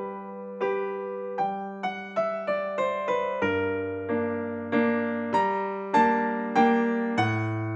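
Background music: gentle piano, notes struck about every half second over held bass notes.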